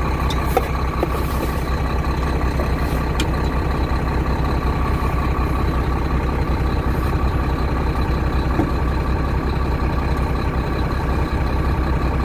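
Truck engine idling steadily while it warms up, with a low hum and a few light clicks from handling in the cab.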